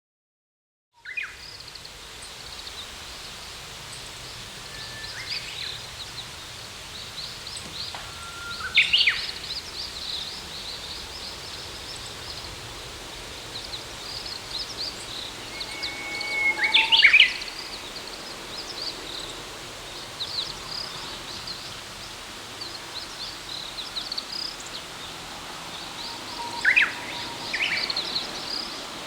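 Birds chirping continually over a steady background hiss, with three louder bursts of sharp, sweeping calls spread several seconds apart.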